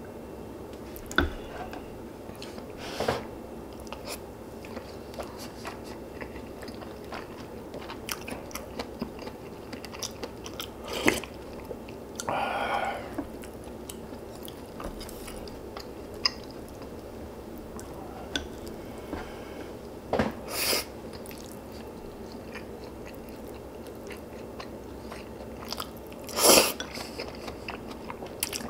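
A person eating close to the microphone: chewing a meal of pork-bone soup and radish kimchi, with a handful of louder bites or crunches spread through.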